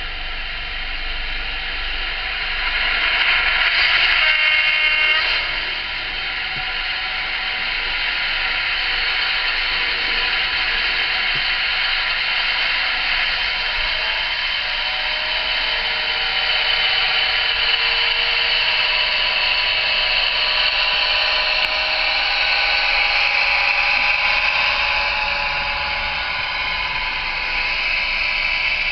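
Bachmann Class 55 Deltic model locomotive running with its sound fitted, a steady diesel-engine drone played through a small speaker, thin and without bass, with a short horn-like tone about four seconds in.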